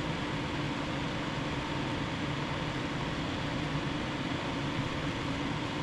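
Steady, unchanging mechanical hum with hiss, as from a running fan.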